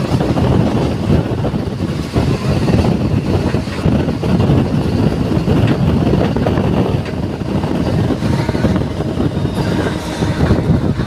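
Electric suburban local train running along the track: a steady, loud rumble with a dense run of small knocks from the wheels and carriages.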